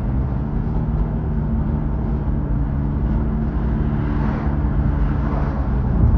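Car driving: a steady low engine and road rumble, with a hiss of tyres that swells and fades about four to five seconds in.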